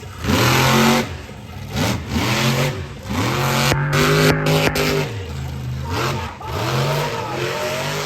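Monster truck engine revving hard in repeated bursts. Its pitch climbs with each rev and drops away, with one longer rev held high in the middle.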